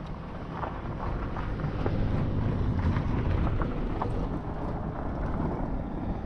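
Wind buffeting the microphone as an uneven low rumble, strongest in the middle, with scattered small crackles and rustles.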